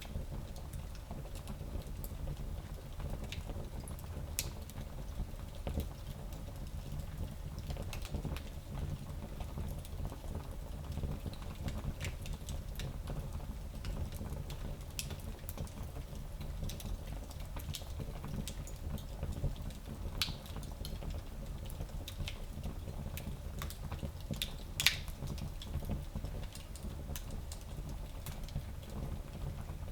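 Fire burning in a small fireplace: a steady low rumble of flame with irregular crackles and pops throughout, one louder pop near the end.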